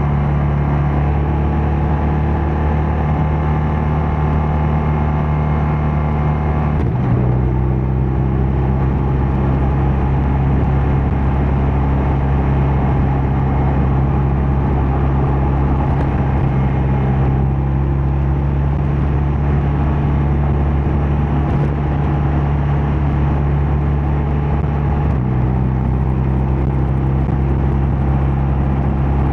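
BMW R12 nineT's 1170 cc air/oil-cooled boxer twin running steadily under way on the open road. Its note drops at about seven seconds in and climbs again a few seconds before the end.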